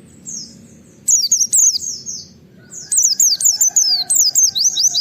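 A white-eye (pleci) singing fast runs of high, sharply downslurred 'wit wit' notes. A short run comes about a second in and a longer one from about three seconds.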